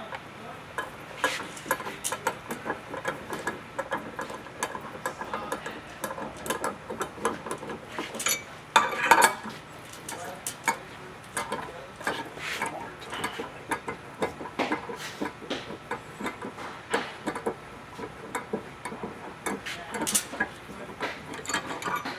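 Hand tools working steel bolts loose on a clicker press: irregular metallic clicks, taps and clinks of an Allen wrench and cheater-bar pipe, with a louder clatter about nine seconds in.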